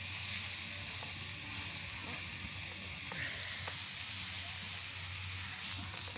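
Steak and sausages sizzling over a campfire: a steady frying hiss with a few small pops.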